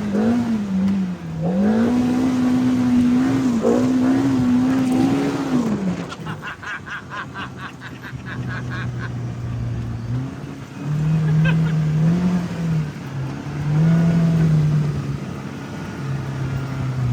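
Off-road vehicle engines revving. One holds high and wavers for about six seconds, then drops away. A lower engine follows, revving up and down in short pulls.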